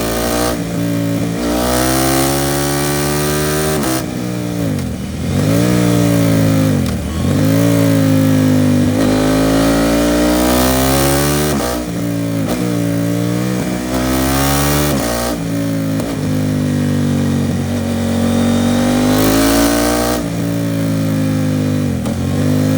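KTM 790 Duke parallel-twin engine through an Arrow Pro Race titanium exhaust, ridden hard: its pitch climbs through the revs and drops at each gear change, with quick dips and recoveries about five and seven seconds in. A steady rush of wind noise runs underneath.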